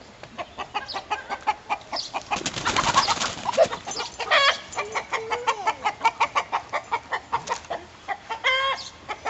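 Chickens clucking in rapid short notes, with a noisy stretch about three seconds in and louder squawks about four and a half seconds in and near the end.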